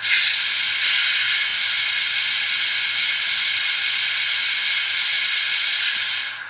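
Sanding-valve air hiss effect from the ESU LokSound Select sound decoder in a ScaleTrains N-scale Tier 4 GEVO, played through its tiny sugar-cube speaker: a steady hiss that starts abruptly and fades out near the end, about six seconds long.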